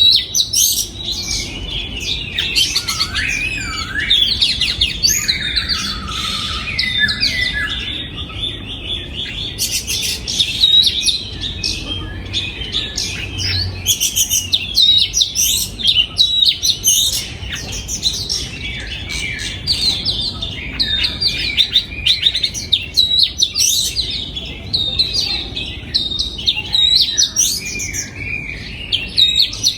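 Oriental magpie-robin singing: a continuous, varied run of quick chirps, trills and whistles, with a few lower, gliding whistles a few seconds in.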